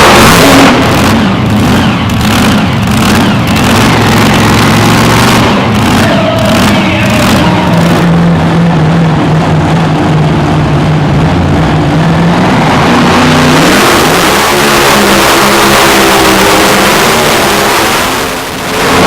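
Mini unlimited pulling tractor's engine at full power during a pull: pulsing and revving at first, then running at a steady high pitch that climbs once more before the sound drops away briefly near the end.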